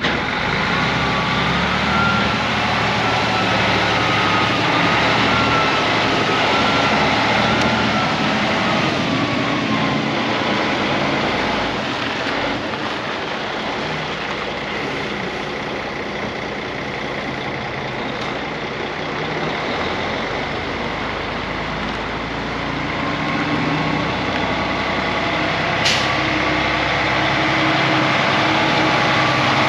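Heavy diesel truck running, a steady engine rumble with a wavering high tone over it in the first ten seconds and a single sharp click near the end.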